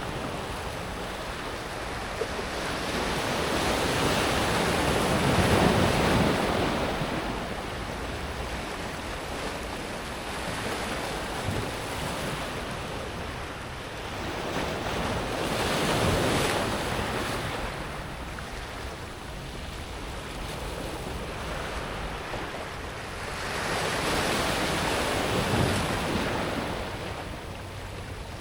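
Small sea waves breaking on a pebble beach and washing back over the stones, swelling three times, each break followed by the hiss of water draining through the pebbles. Light wind on the microphone.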